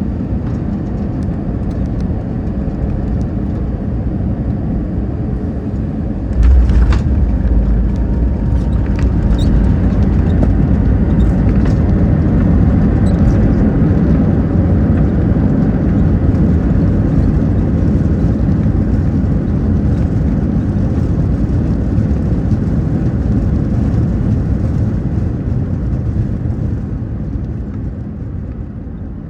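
Cabin noise of an Airbus A320 landing: a steady deep rumble, then a sudden deep thump about six and a half seconds in as the wheels touch down. A louder roar of the engines and the wheels rolling on the runway follows, fading slowly near the end as the airliner slows.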